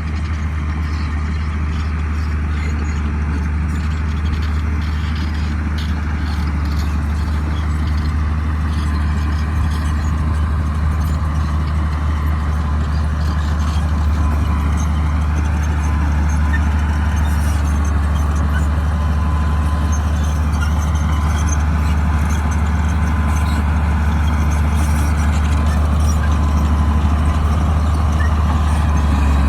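Crawler bulldozer's diesel engine running steadily with a deep drone that slowly grows a little louder, with light clanking and a faint wavering high squeal about halfway through.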